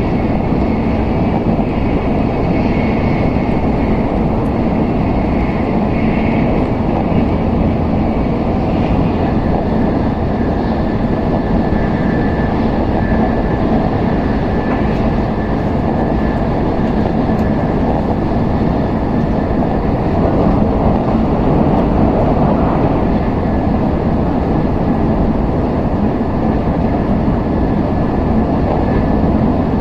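Tokaido Shinkansen N700S train running at speed, heard from inside the passenger cabin: a loud, steady rumble of wheels and rails, with a faint steady whine joining about a third of the way in.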